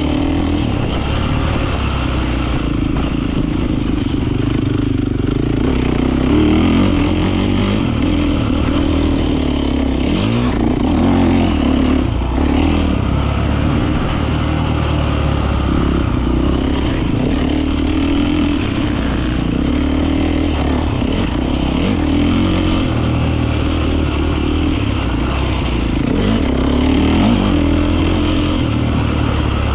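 Beta 450 RX motocross bike's four-stroke single-cylinder engine being ridden hard, its pitch rising and falling again and again as the throttle is opened and closed through the track.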